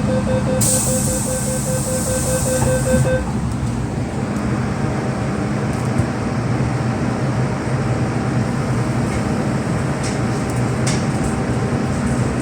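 MTR M-Train car interior at a station stop: the door-closing warning beeps rapidly for about three seconds over a hiss of air from the door gear. After that only the car's steady low equipment hum remains.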